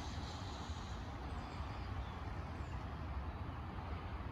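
Steady low rumble and hiss of open-air background noise, with a few faint, short, high chirps.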